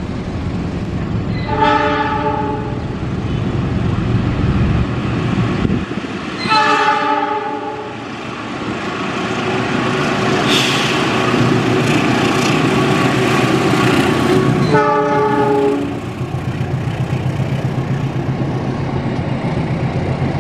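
KAI CC206 diesel-electric locomotive hauling a passenger train past, sounding its multi-tone horn in three blasts of about a second each, near the start, about six seconds in and about fifteen seconds in, over the engine's running. After the last blast the coaches' wheels clatter over the rail joints in a steady rhythm.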